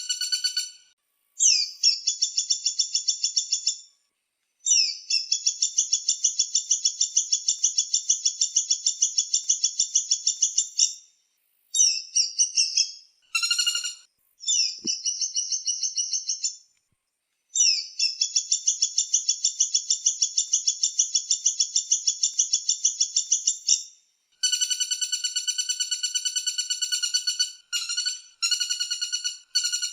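Kapas tembak and pelatuk bawang (woodpecker) calls: long, fast trills of rapidly repeated high notes, each run lasting a few seconds with short breaks between them. Near the end, a different, lower-pitched rattle takes over in shorter runs.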